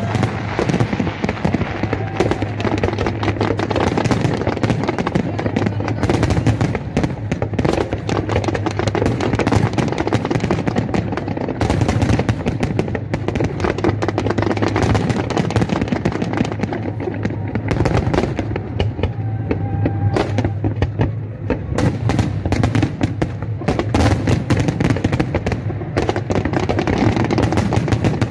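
Fireworks display: a dense, continuous run of bangs and crackling bursts, many to the second, over a low rumble.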